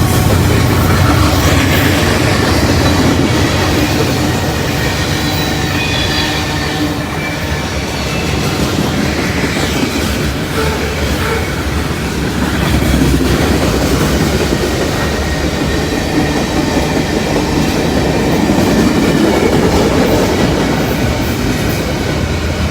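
Freight train cars of a mixed manifest rolling past close by: a loud, steady rumble of steel wheels on rail.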